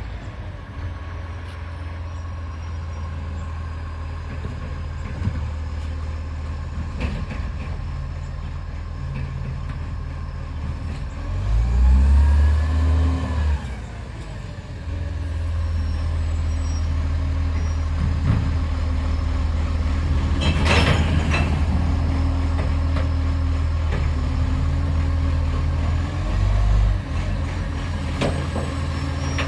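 Garbage truck's diesel engine running with an exhaust leak. The engine revs up briefly about twelve seconds in, and there is a short hiss of air about twenty-one seconds in.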